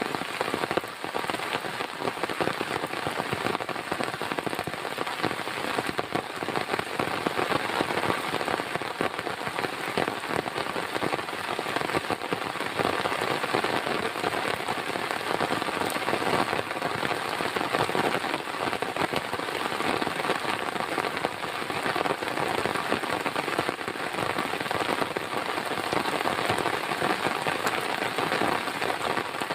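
Heavy rain falling steadily, a dense, unbroken patter of drops hitting a surface.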